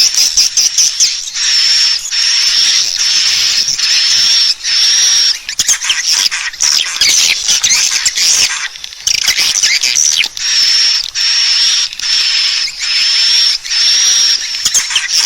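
Swiftlet calls: a loud run of high, short chirps, roughly one every 0.7 s, with a busier stretch of chattering twitter in the middle. This is a lure call used to draw swiftlets in to roost and nest.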